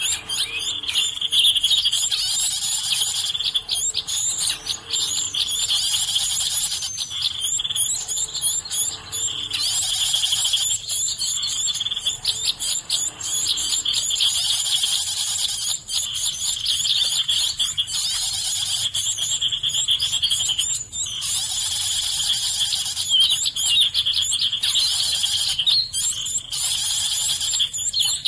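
Dense, continuous high-pitched chirping of many birds, with short dips every few seconds.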